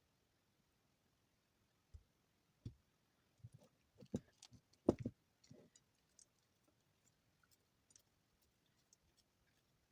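Soap shavings being handled and pressed by hand, giving a quiet series of crackling clicks and soft knocks. These bunch up from about two seconds in, are loudest around the middle, and thin out to faint scattered ticks.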